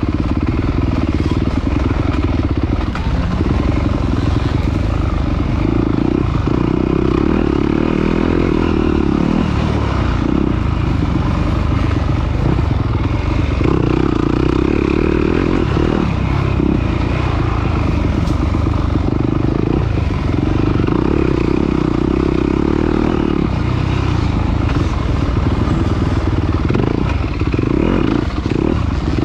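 Off-road race motorcycle engine revving hard and easing off again and again, its note swelling and dropping every few seconds as the throttle opens and closes.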